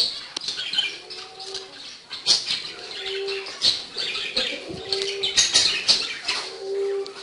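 Caged pet birds chirping and chattering in quick high notes, with a low steady call repeating every couple of seconds.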